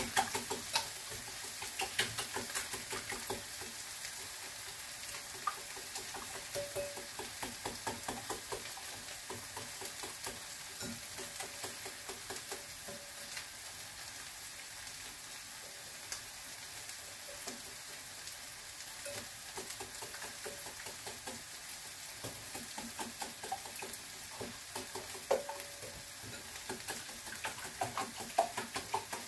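Potatoes, onion and garlic frying in oil in a pan, sizzling steadily with frequent crackles, while being stirred with scattered clicks against the pan.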